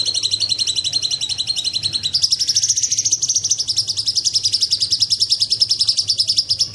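Cucak cungkok (light-vented bulbul) singing a long, rapid trill of evenly repeated notes, which steps up in pitch about two seconds in. A faint steady low hum lies under it.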